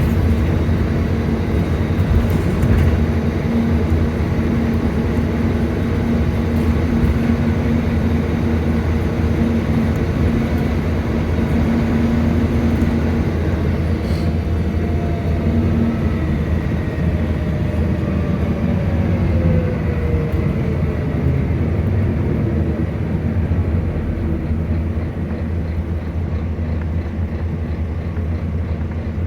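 Volvo B9TL bus's diesel engine running with a steady low drone and hum. Around the middle a fainter whine slides down in pitch over a few seconds.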